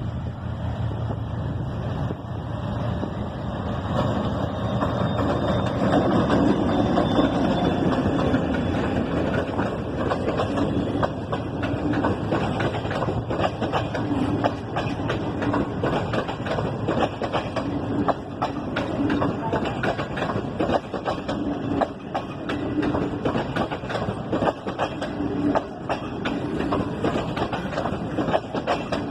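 A diesel-hauled passenger train rolling past, its wheels clicking and clacking over the rail joints in a steady rhythm. It is loudest in the first several seconds, then settles into a regular clatter as the cars go by.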